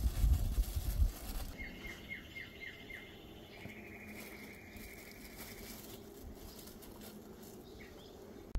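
A small bird calling: a run of about six quick descending chirps, then a steady high trill for about two seconds. Soft knocks and rustling from handling a food bundle come in the first second or so.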